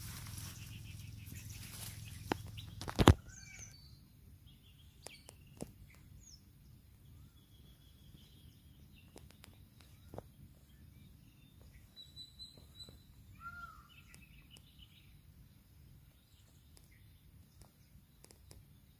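Low handling noise at first, ending in one sharp loud click about three seconds in. After that it is quiet, with scattered faint bird chirps and short whistles and a few light ticks.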